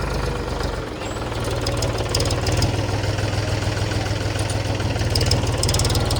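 Mahindra tractor's diesel engine running steadily with an even low chug, with a few light metallic clicks now and then.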